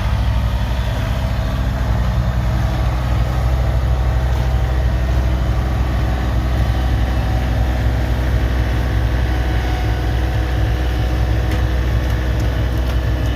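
Loader tractor engine running steadily at a constant low speed.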